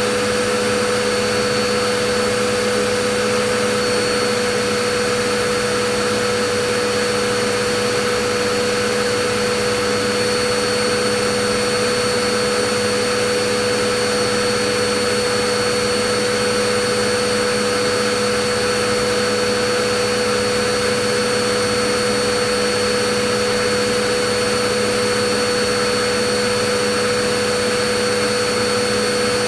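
Vacuum cleaner running steadily: an even hiss of rushing air with a constant motor whine, no change in pitch or level.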